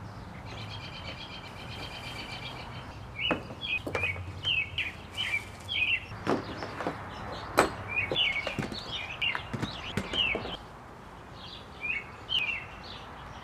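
Small birds chirping in short, quick calls, with a rapid trill in the first couple of seconds. Several sharp knocks and clunks, the loudest about two thirds of the way through, come from gear being set down and handled.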